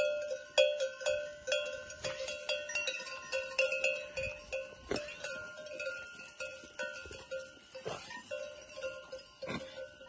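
Many livestock bells on a grazing flock of sheep, clanking and ringing irregularly with overlapping tones as the animals move.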